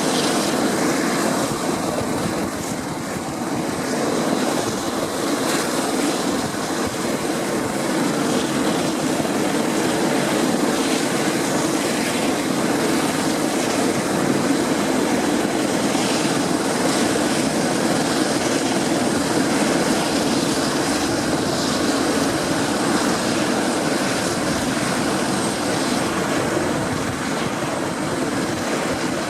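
Dornier Do-27's piston engine and propeller droning steadily in flight, a light single-engine plane holding an even note throughout.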